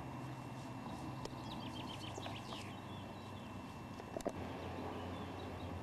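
A small songbird sings one quick phrase of short high chirps a second and a half in, over a steady low hum. A sharp click comes about four seconds in.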